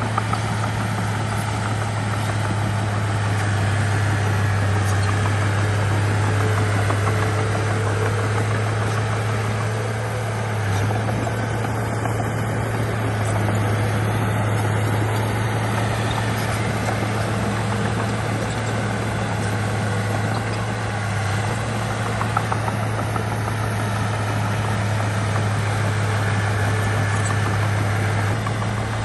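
Heavy construction machine's diesel engine running steadily, a constant low hum with broad mechanical noise over it.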